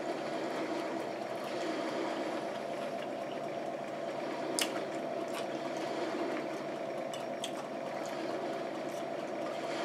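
A person chewing a mouthful of food, with a few sharp clicks of a metal fork against the plate about halfway through and again a little later.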